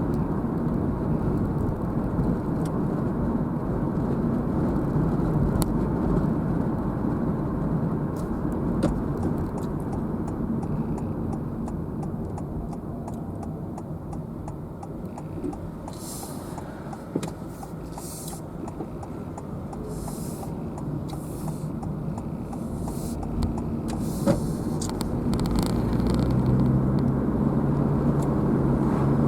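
Car on the move: steady road and engine noise heard from the vehicle, easing off in the middle and growing louder again near the end.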